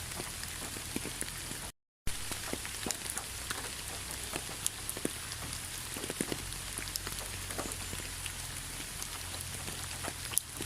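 Steady rain, a continuous hiss with many individual drops tapping on a surface. The sound cuts out completely for a moment just under two seconds in, then resumes.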